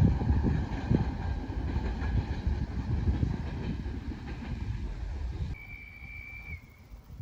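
Freight train rolling past at close range, its wheels clattering over the rail joints with a heavy rumble. A little over five seconds in, the sound cuts off suddenly to a much quieter background, where a steady high-pitched tone sounds for about a second.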